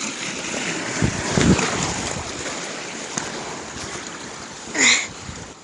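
Sea waves washing against the rocks with wind buffeting the microphone, a heavy gust about a second in. A brief vocal call near the end.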